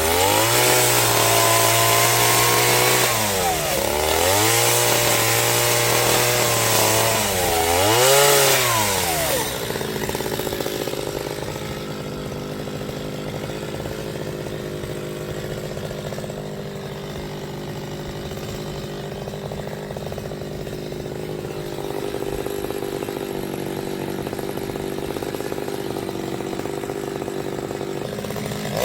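Chainsaw cutting wood, its engine pitch dipping and recovering several times under load. About ten seconds in it drops to a quieter, steady lower-speed run.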